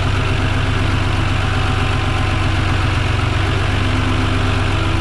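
John Deere 5205 tractor's three-cylinder diesel engine idling steadily, with an even low rumble.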